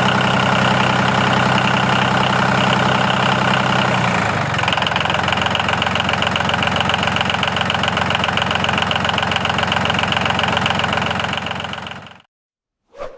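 Engine running steadily with a fast, even pulse. Its tone changes about four seconds in, and it fades out about a second before the end.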